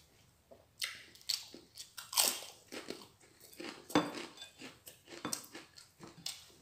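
Close-up crunching and chewing of crisp fried food, with irregular sharp crunches, the loudest about two and four seconds in.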